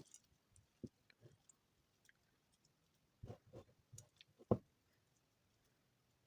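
Hands pressing and working damp soap shavings together: faint, irregular soft clicks and squishy taps, the loudest about four and a half seconds in.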